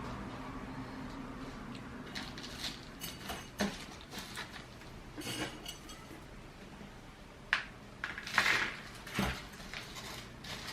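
Scattered light clinks, scrapes and rustles of a plant pot being handled and gritty potting mix of clay balls and pumice being moved during cactus repotting. A sharp click comes about seven and a half seconds in, with a louder rustling scrape a second later.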